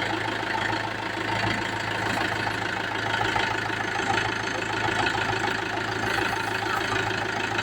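New Mahindra tractor's diesel engine idling steadily.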